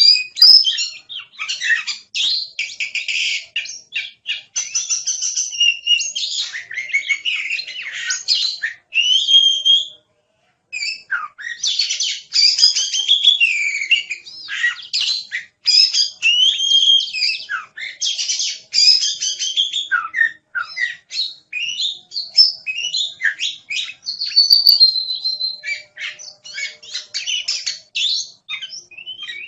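Oriental magpie-robin (kacer) singing without letup: a rapid, varied run of whistles, trills and chattering notes, with one short pause about ten seconds in.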